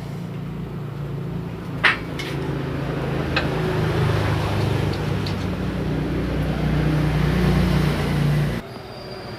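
Small metal lathe's electric motor and drive running with a steady low hum, with a couple of light clicks, then cutting off abruptly near the end.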